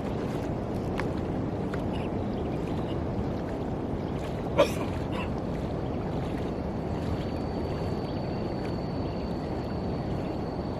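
Steady rush and slosh of shallow water, with a single sharp slap about four and a half seconds in.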